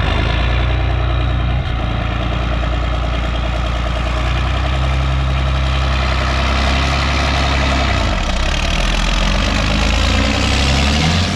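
Tractor engine idling steadily through a new chrome straight-pipe exhaust stack. Its low note shifts a little about halfway through.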